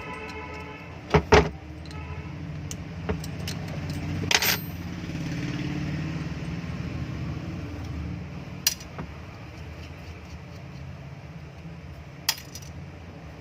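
Metal clinks and knocks of hand tools and screws on an exhaust fan motor's housing as its screws are taken out. There is a loud double knock about a second in, a short rattle a little after four seconds, and a few single clicks later, over a steady low rumble.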